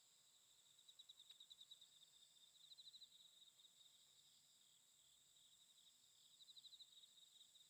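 Faint crickets chirping in short pulsing trills that swell every few seconds, over a steady high-pitched insect drone.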